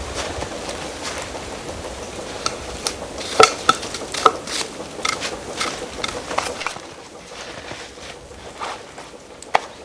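Camp cookware and utensils being handled: scattered clinks and knocks, busiest a few seconds in, with one sharp knock near the end.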